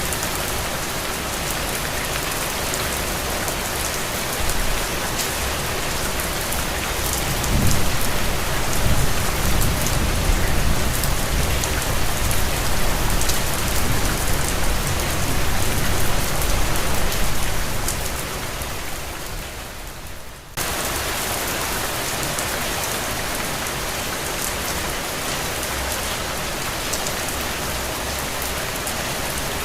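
Steady rain falling and pattering on surfaces. About a quarter of the way in, a low rumble rises and runs for some ten seconds before fading. Around two-thirds in, the sound dips and then cuts back in abruptly at full level.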